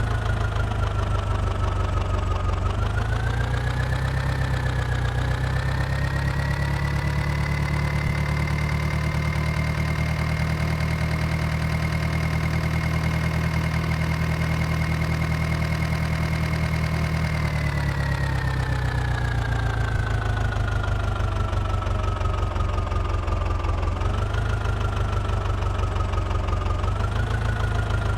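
Sonalika tractor's diesel engine under load, revving up over a few seconds, holding at high revs for about ten seconds, then slowly easing back down, with a couple of brief rises in revs near the end.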